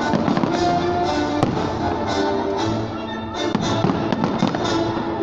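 Fireworks display: repeated sharp bangs of bursting shells, several in a few seconds, over music with sustained notes.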